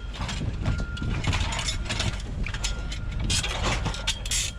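Pieces of scrap metal clanking and scraping against each other as they are handled, in many irregular sharp knocks, over the steady low rumble of a running vehicle engine.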